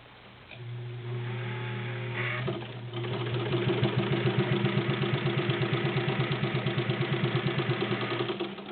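Necchi BU sewing machine's 1.1 amp motor humming, then picking up speed and stitching through three layers of garment leather in a fast, even rhythm, stopping just before the end.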